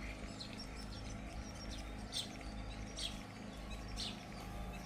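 A bird chirping outdoors: a few short, high chirps about a second apart, over a low steady background hum.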